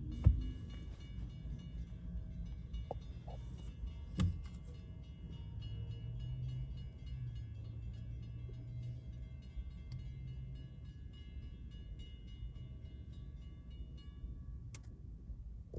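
Railroad grade-crossing warning bell ringing in rapid, evenly spaced strokes as the crossing gates come down for an approaching train. It starts with a knock and cuts off sharply near the end, with a low hum swelling partway through.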